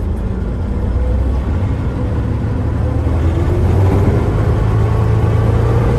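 Planet diesel locomotive's engine opened up in first gear, pulling away. It runs with a heavy low rumble that grows louder, and a whine that slowly rises in pitch from about halfway through.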